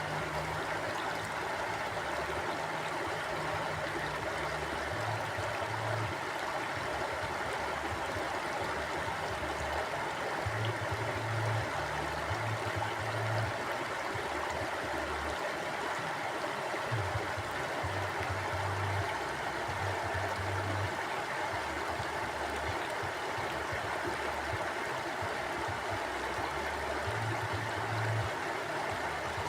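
Mountain stream flowing steadily, an even rush of water with a low, shifting rumble underneath.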